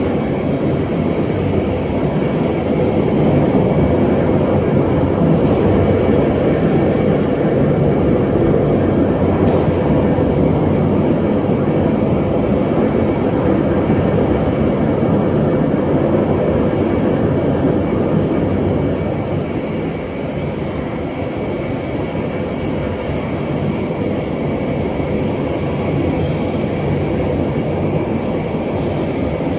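Vertical turret lathe running, a loud steady grinding rumble of heavy machining that eases slightly about two-thirds of the way through.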